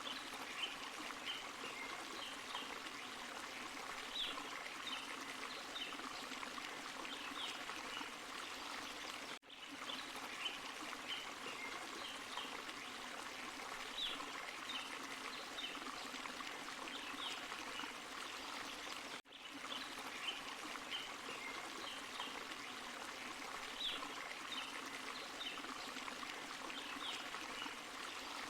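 Forest stream and small waterfall running, a steady rush of water with small high plinks and splashes over it. The same stretch of water sound repeats about every ten seconds, each time with a brief dip in level.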